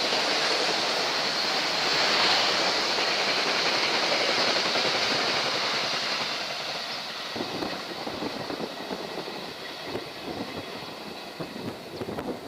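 Long passenger trains running past on the rails: a steady rush of wheels and carriages that fades away after about six seconds as the trains draw off. Wind gusts on the microphone follow.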